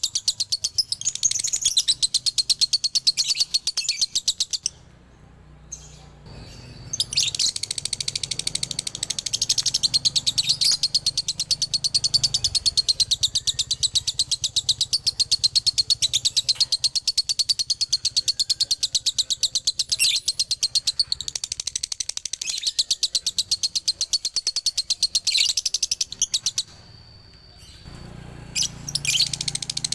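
Male lovebird chattering in its long, fast 'ngekek' song: continuous runs of rapid, high-pitched notes, broken by two short pauses, about five seconds in and near the end.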